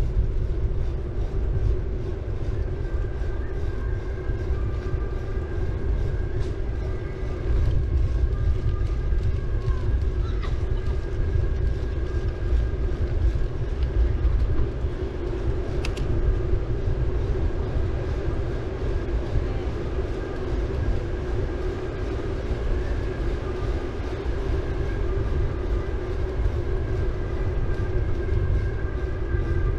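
Bicycle riding along: steady rumble of the tyres rolling on the road, with wind on the microphone and a faint thin whine that comes and goes.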